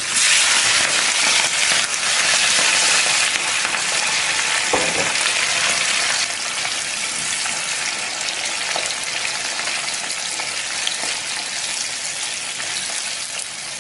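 Whole shell-on prawns tipped into hot oil in a frying pan, setting off a sizzle that is strongest as they go in and eases off over the following seconds. Near the end a wooden spatula turns them in the oil.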